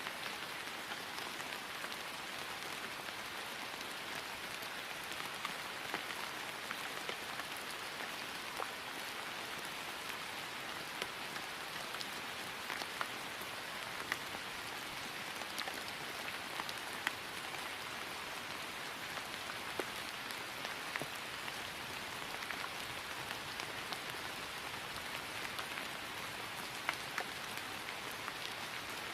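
Steady rain falling on grass: an even hiss with many scattered individual drop ticks.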